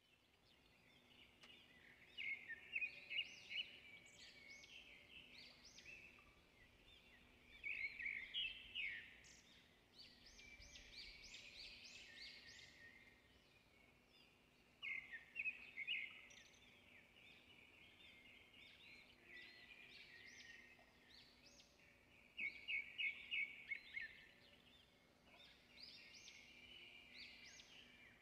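Small birds chirping: quick runs of short high notes in bursts every few seconds, over a faint steady hum.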